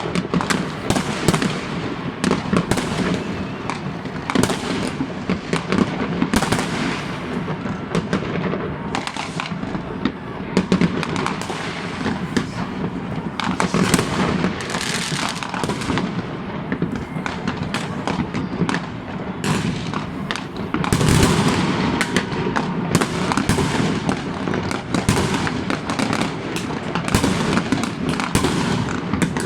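A dense barrage of fireworks and firecrackers going off many at a time, with overlapping bangs and crackles several times a second and no pause.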